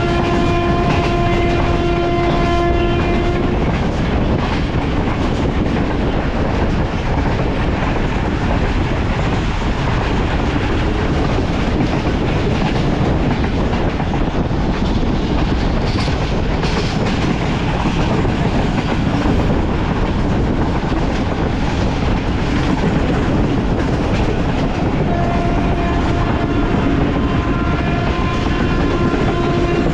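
Moving train running with a steady rumble and clatter of wheels on track. A train horn sounds with a steady tone for the first three seconds or so, and again over the last five seconds.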